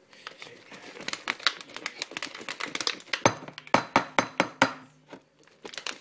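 Ice cubes rattling and clinking inside a lidded cup of milk and ice cream shaken by hand to make a milkshake: a fast, irregular run of sharp clicks that grows louder about halfway through.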